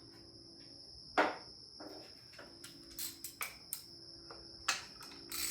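Metal tool clinks and knocks as a wrench is worked on the power steering pump's mounting bolts: one sharp knock about a second in, then a scattering of lighter clicks, with a faint steady high whine underneath.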